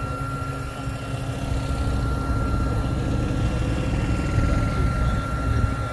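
An engine running steadily nearby: a dense low rumble with a faint steady whine above it.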